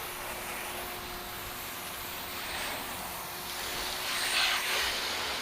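Garden hose spraying water over a car's panels to rinse off soap: a steady hiss, a little louder about four seconds in.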